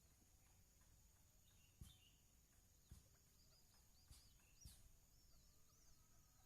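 Near silence with faint, high, short chirps of small birds, more of them in the second half, and four soft knocks. A steady faint high-pitched hum sits underneath.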